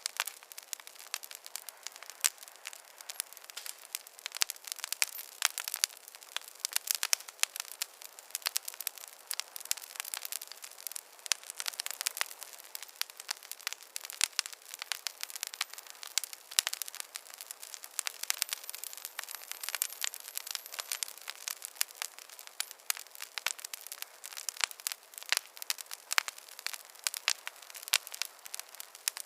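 Fire crackling: a dense, irregular run of sharp pops and snaps over a soft hiss. The sound is thin, with no low rumble.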